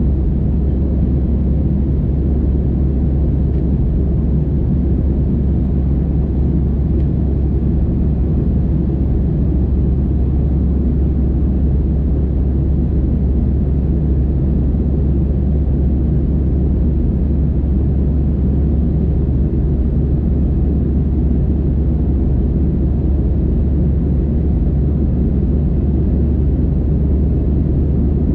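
Steady low cabin drone of an Airbus A320 in flight, heard from inside the cabin: the rumble of its CFM56 engines and the airflow, with no change in pitch or level.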